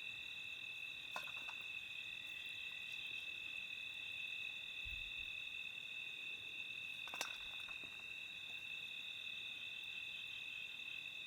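Crickets chirring steadily in a continuous high trill on two pitches, with a couple of faint clicks, about a second in and about seven seconds in.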